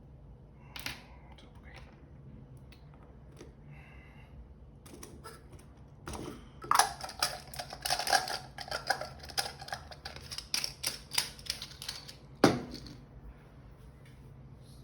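Rapid small clicks and taps of hard tools working at a G-Shock watch's band and case, a few scattered at first, then a dense run of clicking in the second half that ends with one loud click.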